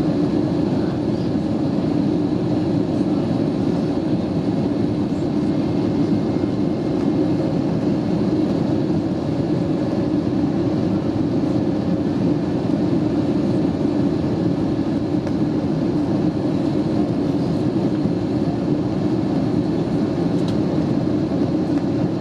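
Steady cabin noise of an Airbus A320neo with Pratt & Whitney PW1127G geared turbofan engines: an even, low rumble of engines and rushing air, heard from inside the passenger cabin.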